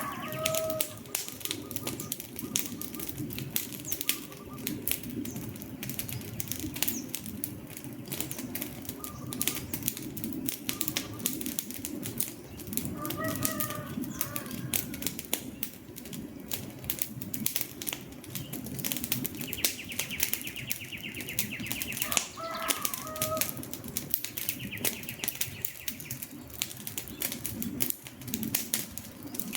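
Wood fire crackling, with constant rapid pops and snaps over a low rush of flames. A few short bird calls come in now and then, and a high buzzing trill sounds twice in the second half.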